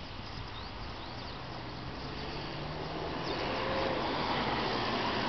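Mitsubishi Pajero's 4M40 2.8-litre turbo diesel engine running, growing gradually louder.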